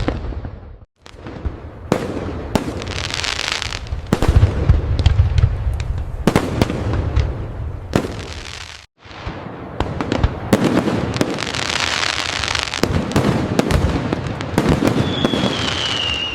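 Fireworks display: a dense run of sharp aerial bangs and crackling bursts, with deep booming rumbles about four to six seconds in. The sound cuts out briefly twice, and a short falling whistle sounds near the end.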